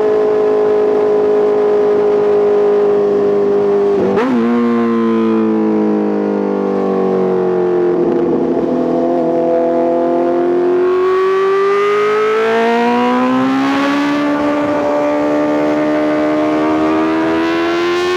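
Honda CBR650R's inline-four engine through an Arrow Pro Race titanium full exhaust, under way. It holds steady, changes gear sharply about four seconds in, falls in pitch while easing off, then rises steadily as the bike accelerates through the rest.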